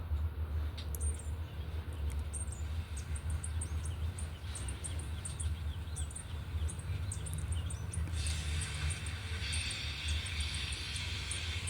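Small wild birds chirping again and again in short, high calls over a steady low rumble; a steady hiss joins in about eight seconds in.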